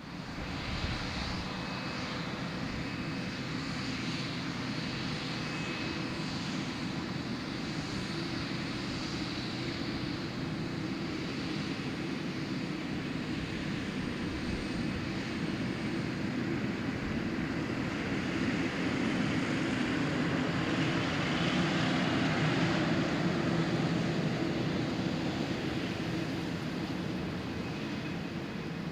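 Jet airliner engines at takeoff power: a steady rush that swells about two-thirds of the way through, then eases near the end.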